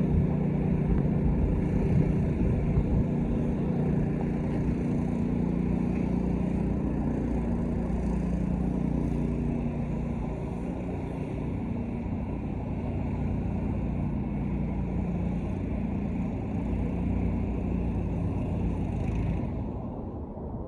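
Gas-engine pressure washer running steadily, with the hiss of the spray on top; the hiss cuts off near the end while the engine keeps running.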